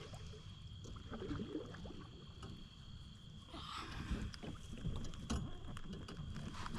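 A kayak on the water being paddled up alongside another, with water sloshing and light knocks against the hull; a swell of splashing water about three and a half seconds in.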